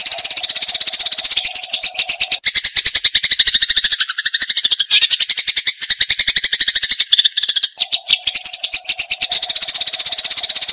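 Eurasian tree sparrows (burung gereja) giving their agitated fighting chatter: a fast, unbroken string of high chirps, many to the second. Between about two and seven seconds in, the notes drop lower before going back up.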